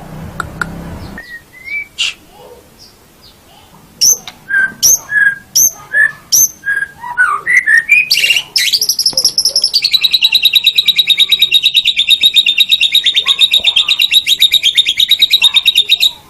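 White-rumped shama (murai batu) singing: a run of separate sharp whistled notes, about two a second, then a long, fast, even trill that stops suddenly near the end.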